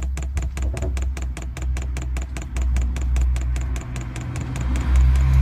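Diesel heater fuel dosing pump clicking quickly and evenly, about six clicks a second, priming fuel and pushing air bubbles through the fuel line; the clicking stops near the end. A steady low rumble runs underneath.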